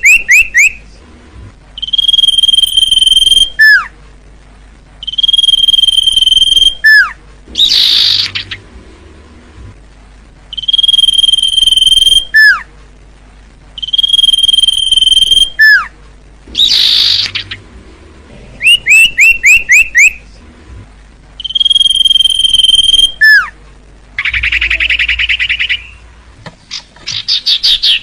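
Common iora (cipoh) singing its 'sirtu' song. It repeats long, steady, high whistles of a second or more, each ending in a quick downward slur, between bursts of rapid chirps and harsh chattering.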